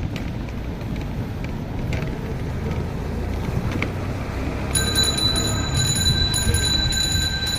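Low, steady street rumble of traffic. About two thirds of the way in, a steady high-pitched electronic tone joins it, with a faint pulsing over it.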